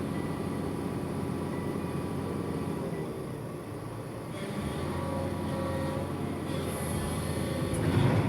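Heavy work machine engine running steadily, with a louder knock near the end.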